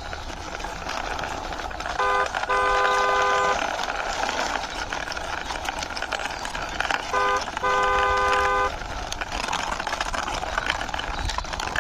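Car horn tooting in two pairs, each a short beep followed by a longer one, over a steady background noise.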